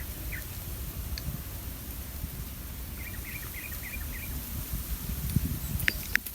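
Outdoor riverside ambience with a steady low rumble, and a small bird giving a quick run of about six short high chirps about halfway through; two sharp clicks near the end.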